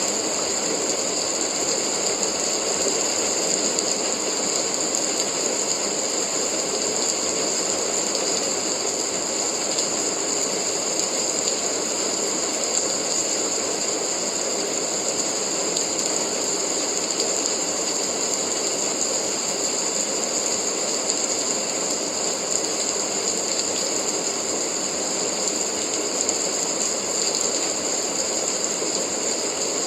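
Steady rain falling, an even, unbroken hiss with a strong high edge that holds the same level throughout.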